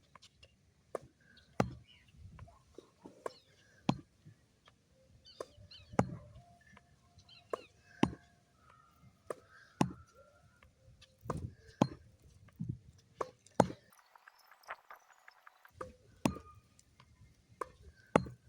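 Tennis ball being rallied: sharp pops of racket strikes and ball bounces, coming irregularly about once or twice a second, with a short break in the hitting a little after the middle.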